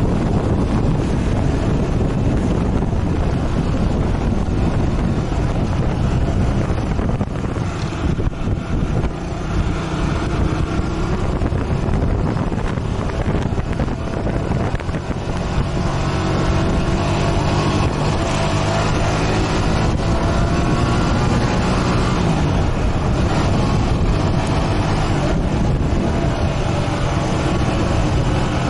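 Motorcycle engine running under way, with heavy wind rush on the microphone. The engine's hum comes through more clearly in the second half, and its pitch shifts once past the middle.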